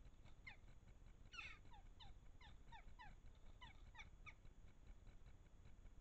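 A crow-family bird at a garden feeder calling faintly: a quick series of about a dozen short, downward-falling yelps over some four seconds, then stopping.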